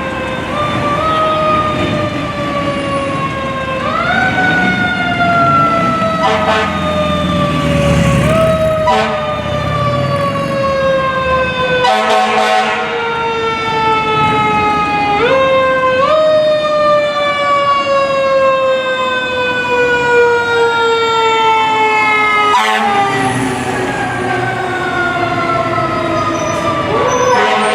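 Fire truck sirens wailing, each cycle a quick rise followed by a slow fall, repeating about every four seconds, with a second siren overlapping. Underneath is the rumble of the trucks' engines, and there are a few short horn blasts around the middle.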